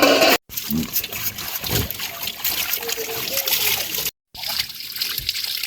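Water trickling and splashing steadily. The sound cuts out abruptly for a moment twice.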